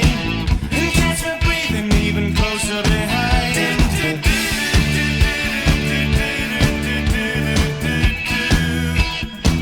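Rock song with a steady, driving drum beat under bass and synth lines.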